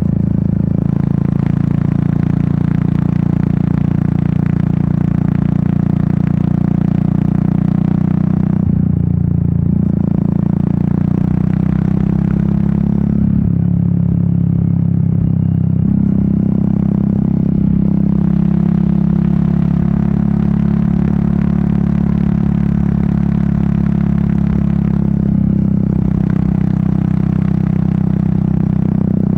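Royal Enfield Meteor 350's single-cylinder engine and exhaust running steadily under way, with a rushing noise over it that dips briefly three times as the throttle eases.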